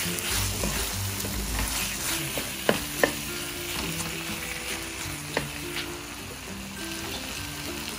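Chicken pieces frying in a thick curry spice paste in a stainless steel pan, sizzling steadily as a wooden spatula stirs and scrapes them. The spatula knocks sharply against the pan three times, twice close together about two and a half seconds in and once more past the middle.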